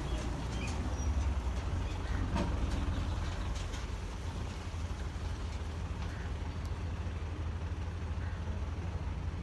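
Belarus 510 tractor's diesel engine running steadily with a low rumble.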